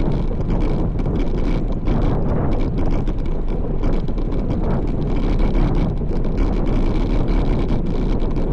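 Steady wind noise buffeting the microphone of a camera on a road bike riding along, a continuous rumble heaviest in the low end.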